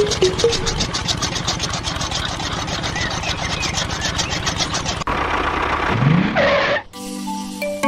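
An engine running with a rapid, even chugging, then a different engine note with a short rising rev about six seconds in, cut off suddenly by music.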